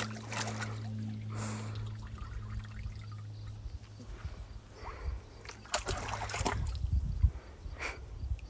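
Water sloshing and splashing in a small pool as a dog moves about in it, in scattered short splashes. A steady low hum runs through roughly the first half.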